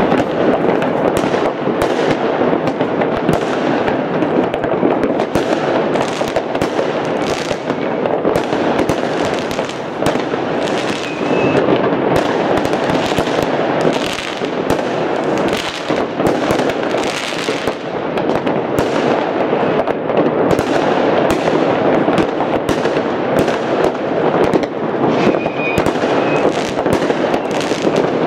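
Many fireworks and firecrackers going off at once: a dense, continuous crackle of overlapping bangs with no pause, steady in loudness. A short high whistle cuts through twice, near the middle and near the end.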